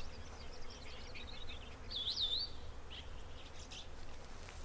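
Wild outdoor ambience: a bird gives a short up-and-down chirp about two seconds in, with fainter chirps before and after, over a steady low rumble and faint hiss.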